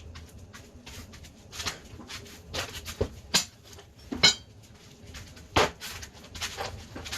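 Irregular metallic clinks and knocks of tools and parts being handled during ATV engine removal work, the sharpest a little past four seconds in.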